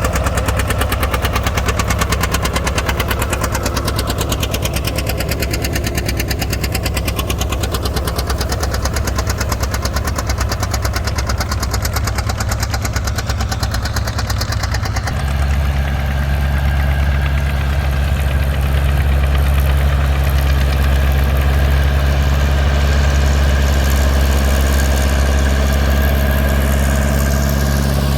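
Farm tractor engine running steadily. About halfway through, its note changes abruptly and grows a little louder.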